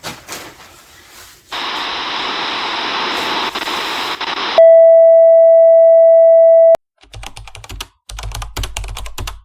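Steady hiss of noise for about three seconds, then a loud electronic beep held on one pitch for about two seconds that cuts off abruptly, followed by rapid keyboard-like clicking.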